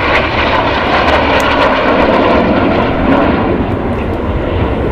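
Jet engines of the Turkish Stars' Canadair NF-5 formation passing by: a loud, steady rushing roar that eases slightly near the end.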